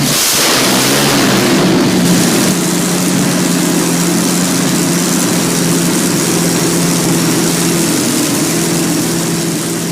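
Rolls-Royce Merlin 27-litre V12 aero engine running at a steady speed, a deep even drone with a brief rush of noise at the start.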